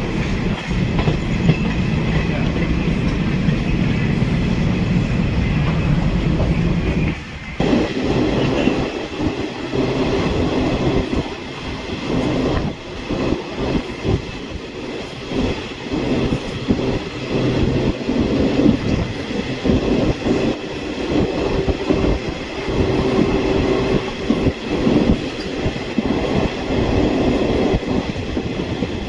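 Passenger train running on the rails: a steady rumble for the first several seconds, then a dense clatter of wheels over rail joints, with a brief drop in level about seven seconds in.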